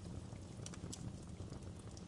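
Wood campfire burning: a steady low rumble of flames with scattered sharp crackles and pops from the burning wood.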